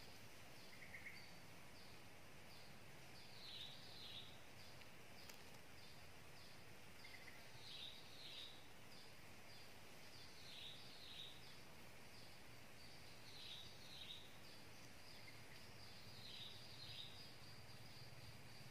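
Faint bird calls: short, high, falling notes, mostly in pairs every two to three seconds, over a steady run of faint high chirps and a quiet background.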